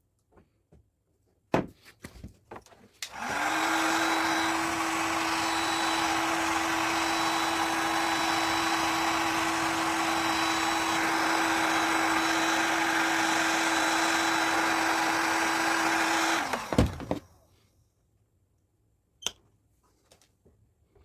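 Heat gun blowing air: a steady whirring rush with a constant hum, switched on about three seconds in and off about thirteen seconds later. A knock just before it starts, another as it stops, and a click near the end.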